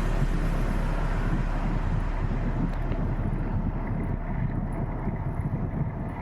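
Wind buffeting the microphone while riding: a steady rumbling rush with no clear tone, its hiss growing duller over the last few seconds.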